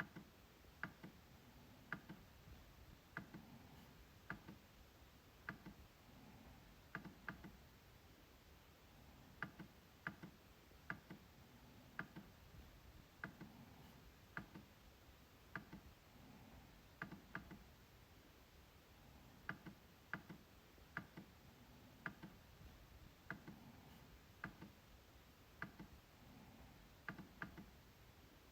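MacBook trackpad being clicked: crisp, separate clicks about once or twice a second, some in quick pairs.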